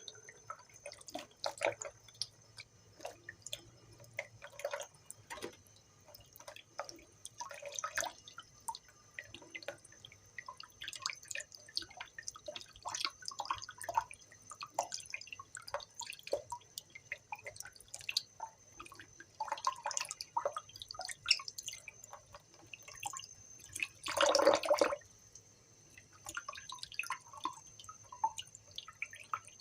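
Pet bird making scattered soft clicks and brief chirps, with a louder burst lasting about a second near the end.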